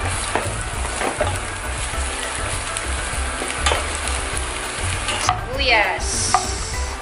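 Minced garlic sizzling in hot oil in a nonstick pan, stirred with a slotted spatula that scrapes and clicks against the pan bottom. Near the end, diced red onion is tipped into the oil.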